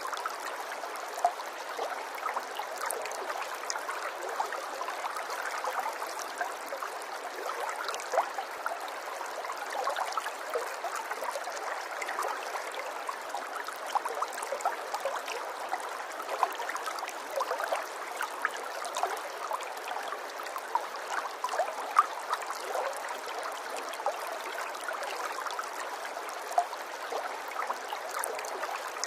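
Water running in a small stream: a steady trickle dotted with many brief splashes and drips, with no deep rumble.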